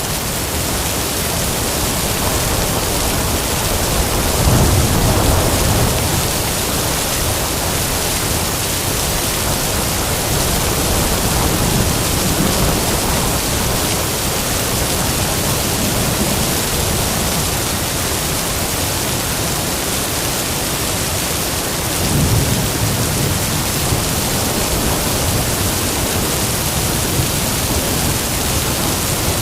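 Heavy rain with wind, a steady loud hiss, with low rumbles of thunder swelling about four seconds in and again past twenty seconds.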